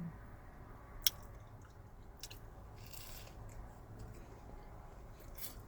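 Quiet close-up chewing of a fried chicken sandwich, with a few sharp wet mouth clicks.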